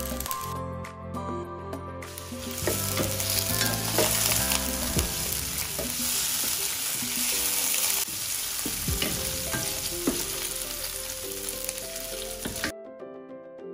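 Squid pieces sizzling as they stir-fry in hot olive oil in a frying pan, pushed around with a wooden spoon that knocks and scrapes against the pan. The sizzle swells about two seconds in and cuts off abruptly near the end.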